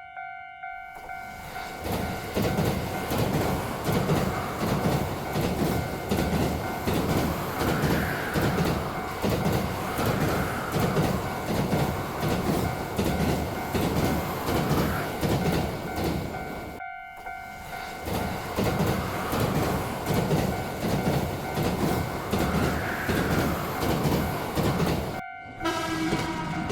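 Railroad level-crossing alarm bell ringing steadily while a train passes, its wheels clattering rhythmically over the rail joints. The sound breaks off briefly twice, a little after the middle and near the end.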